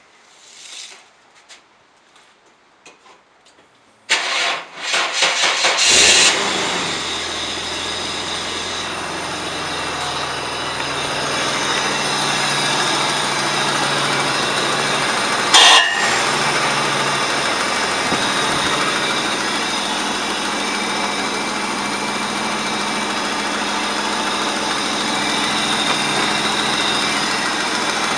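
Nissan R31 Skyline's straight-six cranked by the starter for about two seconds until it catches about six seconds in. It then settles into a steady idle to the end, with one sharp knock about halfway through.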